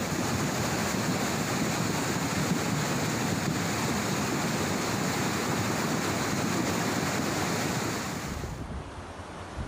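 Floodwater from heavy rain rushing down a mountain channel: a steady, loud rush of moving water. About eight seconds in it drops in level and sounds duller.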